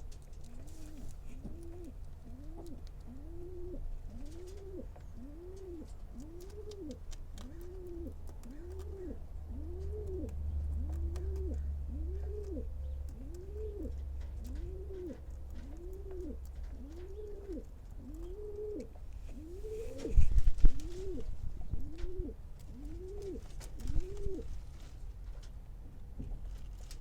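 Lionhead rabbit eating, with fine rapid crunching chews. A low call repeats about once a second throughout, each one rising then falling in pitch, of the kind a cooing pigeon or dove makes. Two louder thumps come about 20 and 24 seconds in.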